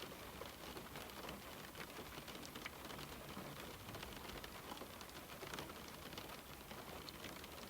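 Steady rain falling on a window pane: an even hiss of rainfall dotted with many small, sharp drop ticks.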